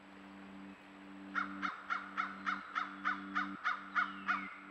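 A bird giving a quick run of about eleven caws, roughly three a second, starting about a second in, over background music with low held notes that change about once a second.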